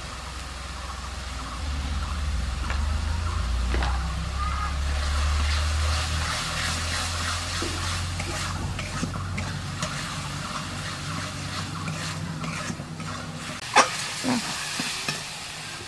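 Onion-ginger-garlic masala paste sizzling as it fries down in a steel kadai, stirred and scraped with a flat metal spatula. A steady low rumble runs underneath, and a sharp metallic clink sounds near the end.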